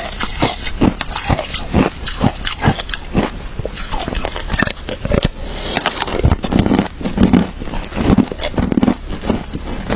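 Close-up crunching of frozen shaved ice being bitten and chewed, a dense run of crisp crunches several times a second.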